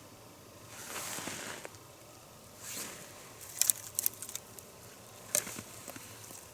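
Hands handling materials while laying a campfire: a couple of brief rustles, then several sharp snaps and clicks in quick clusters about midway and again near the end.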